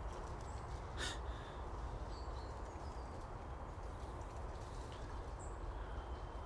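Woodland ambience at dawn: faint, scattered birds chirping and whistling over a steady low rumble, with a single sharp click about a second in.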